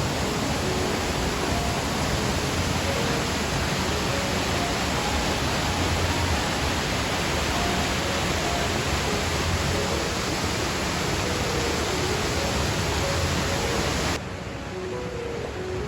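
Steady, loud rush of a waterfall in full flow after heavy rain, with faint music notes underneath. The water noise drops away suddenly near the end, leaving the music.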